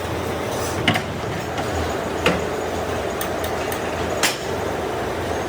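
Factory machinery running steadily with a low hum, with three sharp metallic knocks spaced about one and a half to two seconds apart.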